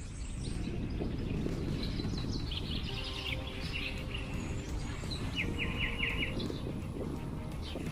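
Small birds chirping and singing in short phrases, with a quick run of about five notes near the middle, over a steady low outdoor rumble.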